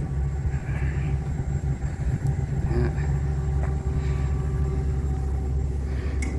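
Ford E-450 box truck's engine idling, a steady low rumble.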